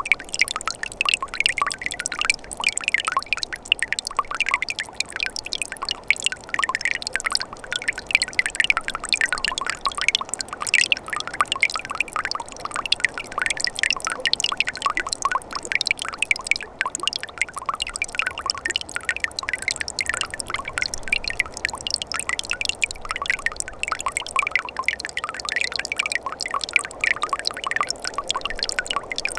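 Winter mountain stream flowing steadily: a continuous rush of water with many small bubbling, trickling splashes.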